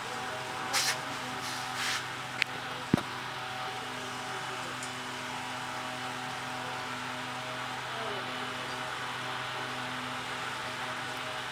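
A steady mechanical hum with two short scraping hisses about one and two seconds in, then two sharp metallic clicks a half-second apart.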